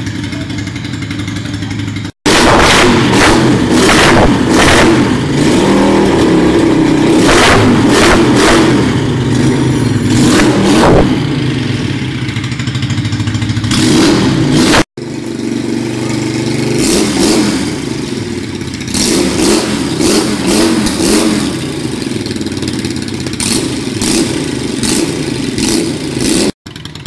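Yamaha Virago 535 V-twin with a direct, straight-through exhaust, idling steadily and then revved over and over in loud throttle blips. The sound breaks off for a moment three times.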